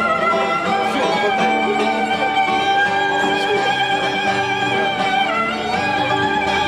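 Violin playing long held melody notes over guitar accompaniment: an instrumental passage of a song.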